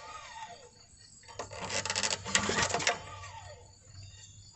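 Recoil starter of a Kohler 196 cc log splitter engine pulled slowly, the engine turning over with a clattering, ratcheting rattle about a second and a half in after the tail of an earlier pull. The slow pulls work fuel pressure out of a cylinder flooded with gas.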